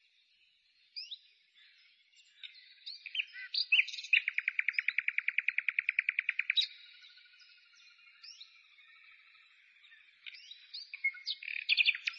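A songbird singing: short chirps and quick sliding whistles, with a fast, even trill lasting a couple of seconds about four seconds in.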